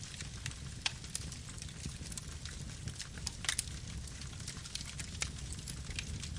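Campfire burning: a steady low rush of flames with irregular sharp crackles and pops of burning wood, a louder pop just under a second in and another about three and a half seconds in.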